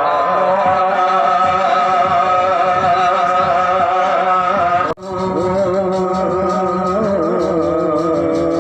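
Music with singing in long, wavering held notes. The sound drops out abruptly for a moment about five seconds in, then resumes.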